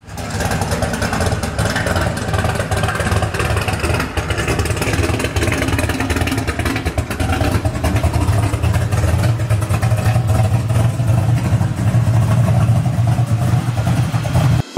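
Chevrolet Chevelle SS V8 running at idle with a steady low rumble as the car rolls slowly out of the garage, growing a little louder partway through and cutting off suddenly near the end.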